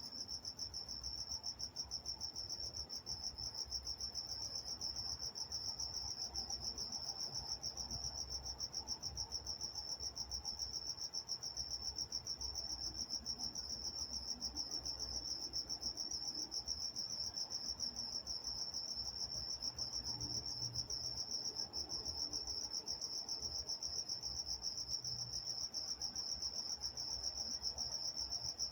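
Night chorus of crickets chirping steadily in a rapid, even pulse, high in pitch, with a faint low rumble underneath.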